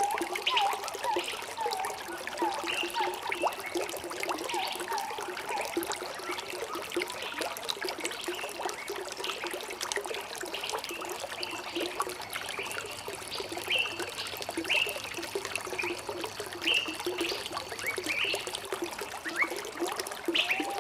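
Water trickling and bubbling steadily, with birds calling in short repeated chirps over it.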